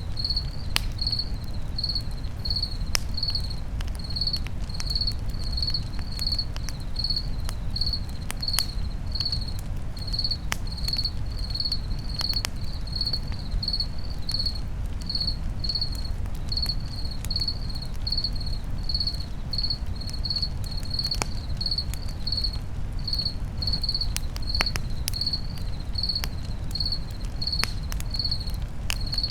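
A cricket chirping steadily at about two chirps a second, over a crackling campfire with scattered sharp pops and a steady low rumble underneath.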